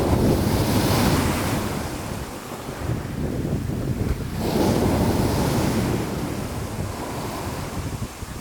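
Sea surf: waves breaking and washing in, two surges about four seconds apart over a steady low rumble.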